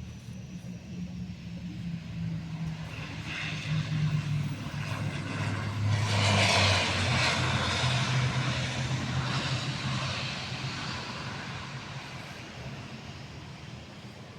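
ATR 72-600 twin-turboprop airliner passing by, its two Pratt & Whitney PW127 engines and propellers droning. The sound grows to a peak about six seconds in, the low drone dropping in pitch as it goes past, then fades away.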